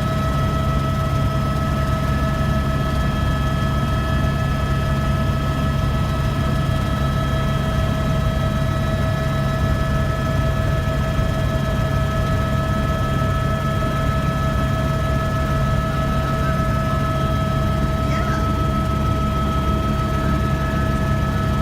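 Tour helicopter running steadily, a constant low drone from the rotors with a steady high whine over it.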